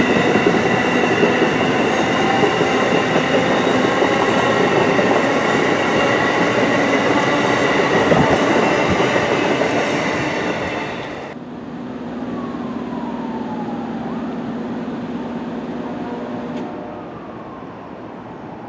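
Passenger train cars running past close by on the rails: a loud rumbling clatter with several steady high-pitched tones ringing over it. It cuts off sharply about eleven seconds in, leaving a much quieter steady low hum with a couple of faint falling tones.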